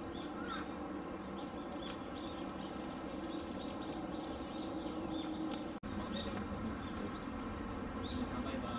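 Small birds chirping repeatedly in quick short notes over a steady low background hum, with a momentary gap in the sound about two thirds of the way through.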